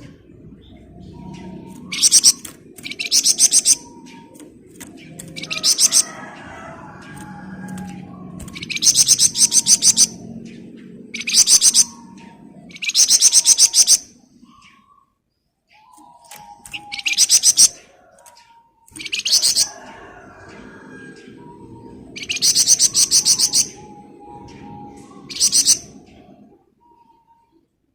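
Songbird known in Indonesian bird-keeping as the flamboyan, singing repeated rapid, high buzzing trills (its 'ngebren' song), about ten bursts of one to two seconds each with short pauses between them.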